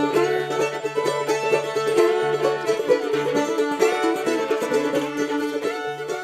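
A bluegrass string band plays a brisk tune: fast plucked strings (banjo or mandolin) and fiddle over a steady bass line. The music begins to fade out near the end.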